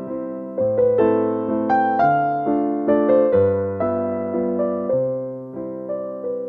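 Background music: a gentle piano melody with chords, notes struck and left to ring and fade.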